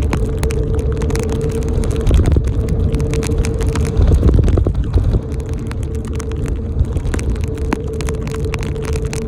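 Steady low rumble of a bicycle ride, with a constant hum and many scattered sharp clicks, swelling louder about two seconds in and again around four to five seconds.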